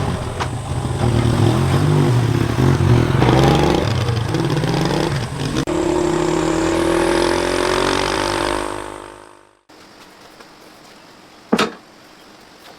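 Motorcycle engine running and being revved up and down a few times, then a steadier higher note that fades away about nine seconds in before cutting off sharply. Later there is faint hiss with a single click.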